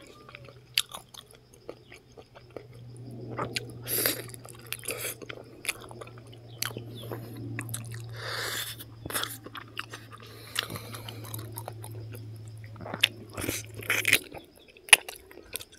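Close-up eating sounds of a man chewing and biting cooked pig feet, with many short, sharp, wet mouth clicks.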